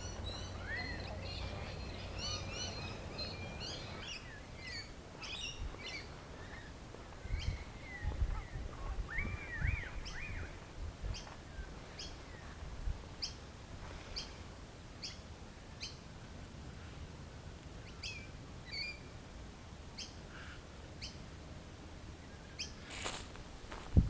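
Wild birds calling, a busy chorus of short twittering and chirping calls at first, then one bird repeating a short high note steadily, about three times every two seconds. Some low thumps in the middle and a loud knock near the end.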